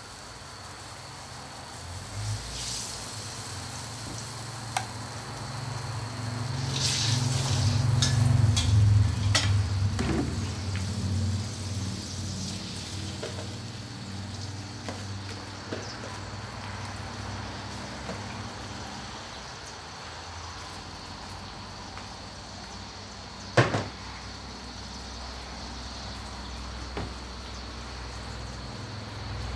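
Vegetables, sesbania flowers among them, sizzling and frying in hot oil in a steel wok, loudest about 7 to 10 seconds in, with scattered clicks and scrapes. One sharp metal clank about 23 seconds in.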